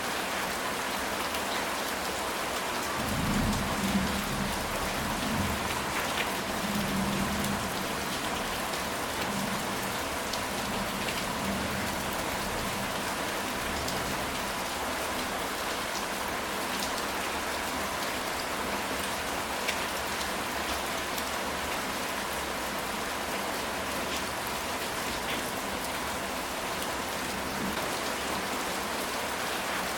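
Steady rain falling on a ceramic tile roof, an even patter of drops throughout. A low rumble of thunder swells and fades a few seconds in.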